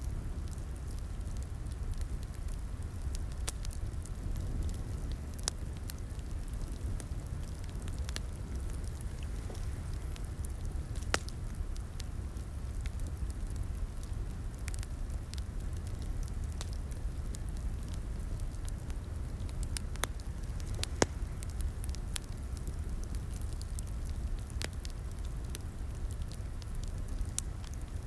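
Wood fire crackling in a fireplace: a steady low rumble of flames with scattered sharp pops and snaps, a few louder ones now and then.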